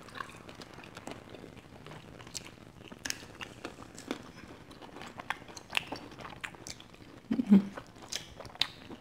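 Close-up eating sounds: biting and chewing sauced fried chicken wings (spicy Korean wings), with scattered small crunches and wet mouth clicks.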